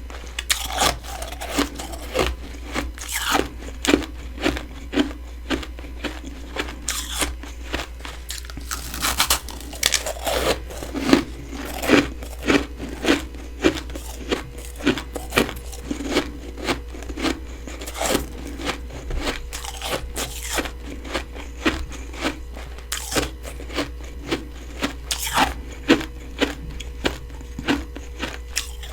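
Close-miked biting and chewing of freezer frost, a steady run of crisp crunches about one or two a second.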